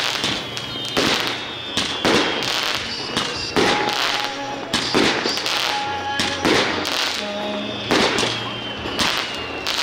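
Fireworks exploding overhead, a sharp bang with a trailing rumble every second or so, over music.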